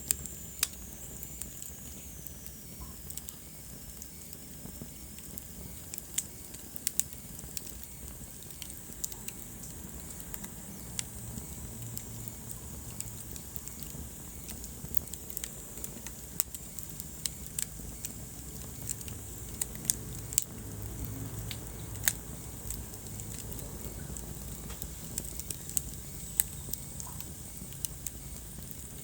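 Wood fire burning in a fireplace, crackling with irregular sharp pops over a low rumble of flames. A faint high whistle falls in pitch over the first few seconds.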